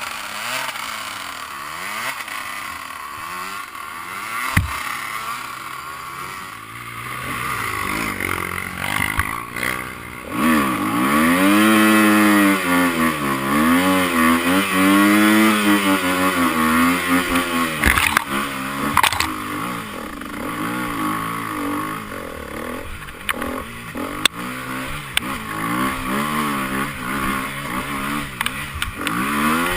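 Enduro dirt-bike engines revving up and down, loudest and closest for several seconds in the middle, with a few sharp knocks scattered through.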